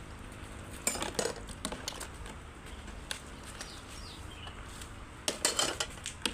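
Dishes and utensils clinking and knocking in two short clusters, one about a second in and another near the end.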